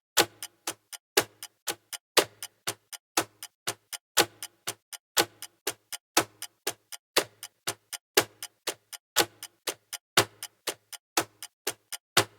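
Clock ticking: sharp, evenly spaced ticks about four a second, with a louder tick once each second.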